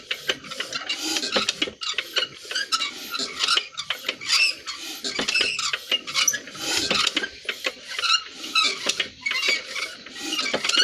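Irregular metallic clinking and scraping, several knocks a second, as metal parts of a diesel pumpset are handled and worked; no engine running.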